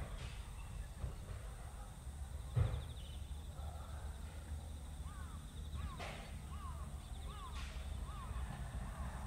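Rural outdoor ambience with a low steady rumble. About two and a half seconds in comes a single heavy thump from equipment being moved in the school gymnasium. From about five seconds a bird calls repeatedly, short rising-and-falling calls about two a second.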